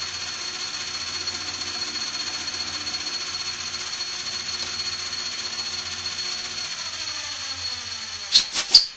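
Electric drill running steadily with a high whine, drilling a little deeper into the hole in a metal shaft coupling. Near the end, a few sharp clicks come as it stops, and it spins down.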